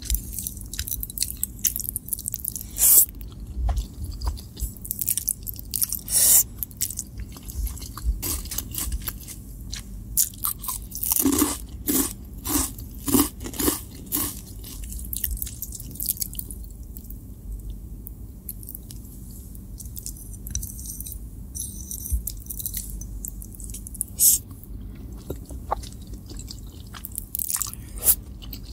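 Close-up mouth sounds of eating: wet chewing of spaghetti carbonara, with a run of loud, crisp crunches from about ten to sixteen seconds in as cheese-coated puffed corn snacks are bitten and chewed, then softer chewing again.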